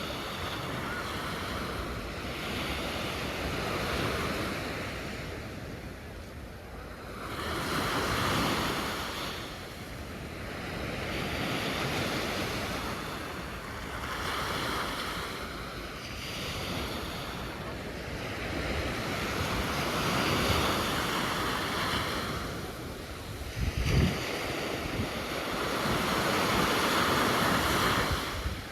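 Sea waves breaking and washing on the shore, a surge swelling and falling back about every four seconds. Wind buffets the microphone with a few low thumps near the end.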